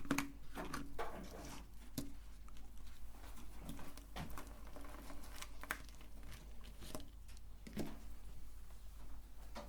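Irregular light clicks and knocks with soft rustling, as small candies are handled and dropped for the meat grinder; no motor is running.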